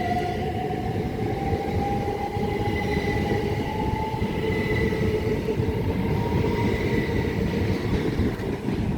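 Class 375 Electrostar electric multiple unit pulling out. Its traction motors give a whine that rises slowly in pitch over a steady rumble of wheels on the track.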